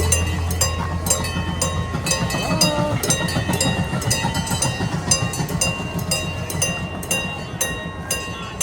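Miniature railroad train running, heard from aboard: a steady low engine hum that shifts up in pitch about two seconds in, with sharp regular clicks two or three times a second.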